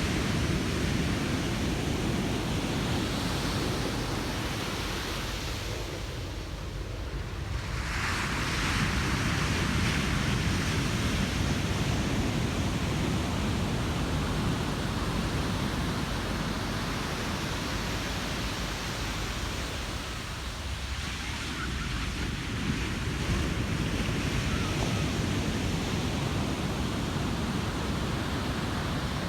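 Ocean surf breaking and washing on a beach in a steady, continuous rush. It eases off about six seconds in and again about two-thirds of the way through, each lull followed by a fresh wave swelling back up.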